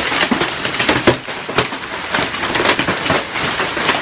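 Hailstorm: hailstones pelting hard surfaces in a dense, irregular clatter of sharp cracks and knocks over a steady hiss of falling ice and rain. It is very loud.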